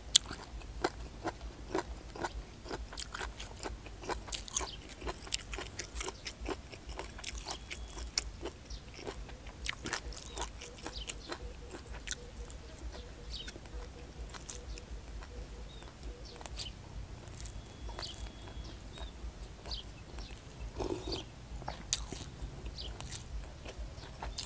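Close-up chewing of hed phor curry: the tough-skinned puffball mushrooms crunch and pop between the teeth in many small, irregular crisp clicks.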